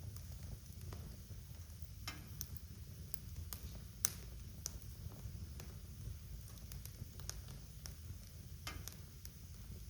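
Wood fire crackling in a fireplace: a low steady rumble of the flames with irregular sharp pops and snaps, the loudest pop about four seconds in.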